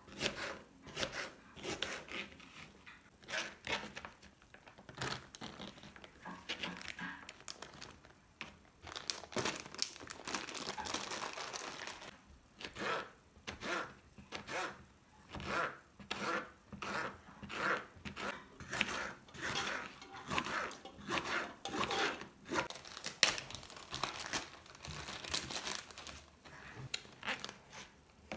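Plastic packaging crinkling and rustling as it is handled, in many short irregular bursts, with a longer steadier rustle about ten seconds in.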